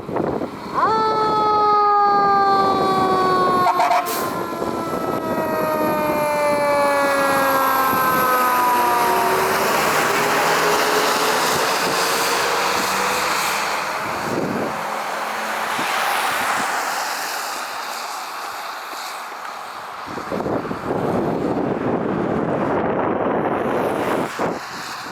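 Fire truck siren sounding loudly and gliding slowly down in pitch for several seconds, then the heavy truck's engine and road rush as it goes by.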